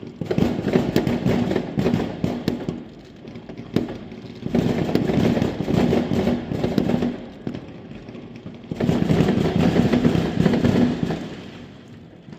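Fireworks going off in three long bursts of rapid crackling bangs, each lasting two to three seconds, with one sharp single bang between the first and second burst.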